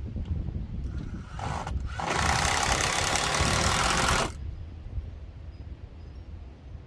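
A steady low engine-like rumble, with a loud hiss that lasts about two seconds near the middle.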